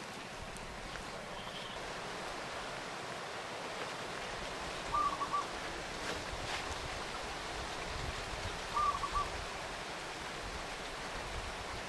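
Outdoor background hiss with a bird calling twice, about five and nine seconds in, each call a short run of three or four quick notes.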